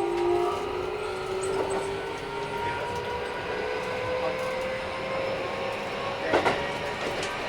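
Keikyu 1000 series train's Mitsubishi IGBT inverter and traction motors whining over the rail noise, the pitch slowly rising as the train gathers speed. Wheels knock twice in quick succession over a rail joint near the end. This set runs a little louder than others of its class.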